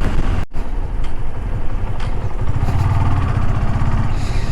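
Motorcycle engine running while riding along the road, with wind noise on the microphone; the sound cuts out completely for a split second about half a second in.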